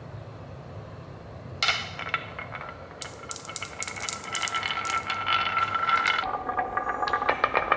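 Marbles rolling and clattering along a marble-run track: a ringing roll with quick clicks starts about a second and a half in, then changes to a lower, denser rattle that grows louder toward the end.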